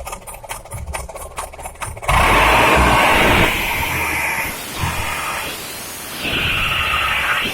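Diesel pickup's modified 'sos' exhaust, built to be very loud. It idles with an even chugging pulse, then is revved suddenly about two seconds in with a loud, raspy blast. It eases off, then is revved again near the end.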